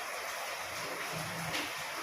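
Heavy rain falling steadily, an even hiss. A faint low hum rises under it for about a second near the middle.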